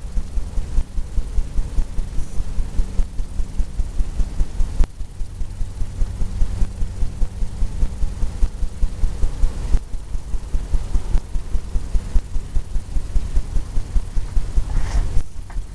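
Steady, rhythmic low thumps of a painting tool tapping against a stretched canvas, about four a second, over a faint low hum.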